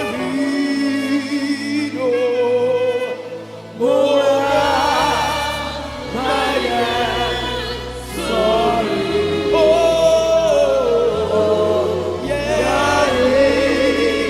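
Gospel song with choir singing over a bass line, the band coming in fuller about four seconds in.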